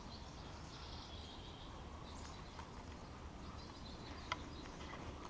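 Quiet outdoor ambience with faint, distant bird chirps and one small click about four seconds in.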